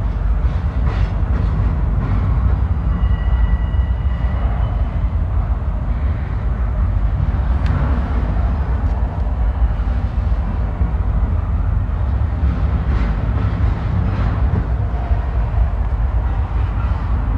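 Norfolk Southern double-stack intermodal freight train rolling past, a steady low rumble of wheels on rail with a few faint clicks and knocks.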